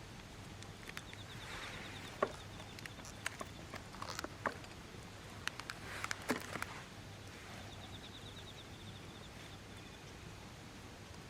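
A scattered series of sharp clicks and knocks through the middle, over a faint, fast, high ticking trill that comes twice, near the start and again later.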